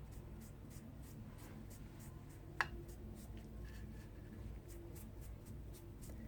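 Faint rubbing and scratching as a baking soda and milk paste is spread over a gloved hand, with one sharp click a little over halfway through.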